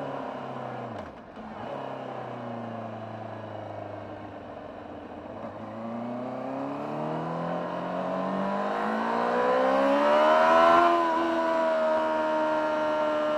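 Honda CBR600RR inline-four engine through its stock exhaust, heard from on board the moving motorcycle. The note drops sharply about a second in, then runs low and steady. From about six seconds in it revs up steadily under acceleration to a peak. Near the end the pitch falls to a steady note, as at an upshift.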